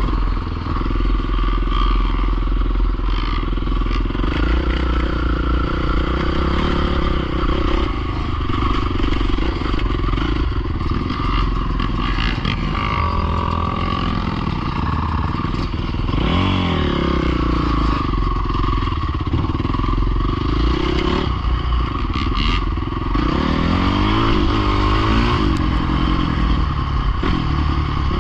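Pit bike engine running, its pitch rising and falling with the throttle, most clearly about halfway through and again near the end.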